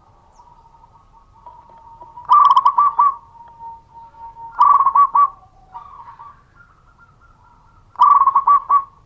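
Zebra dove (perkutut) singing its cooing song: three loud phrases of quick stuttering coos, a few seconds apart, with fainter drawn-out cooing in between.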